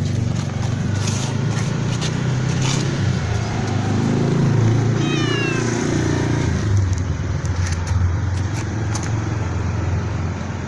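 A cat meowing once, a call that falls in pitch, about five seconds in, over a loud, steady low rumble.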